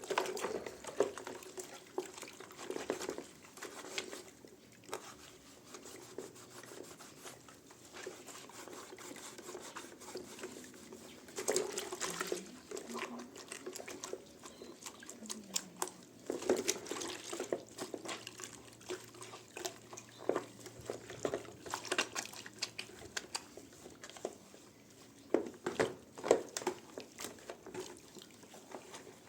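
Intermittent water splashing and dripping with scattered small knocks and clatters, louder in a few short clusters.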